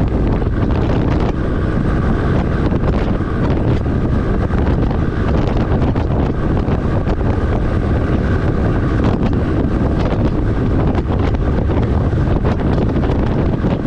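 Steady rumble of a truck driving at speed, engine and road noise, with wind buffeting the microphone.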